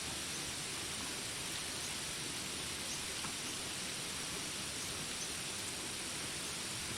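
Steady hiss of falling rain, even and unbroken, with a few faint short chirps from the jungle.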